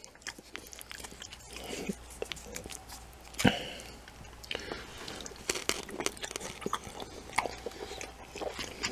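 A person chewing a mouthful of Chinese takeout noodles and chicken close to the microphone, with small wet mouth clicks and smacks. One sharper click comes about three and a half seconds in.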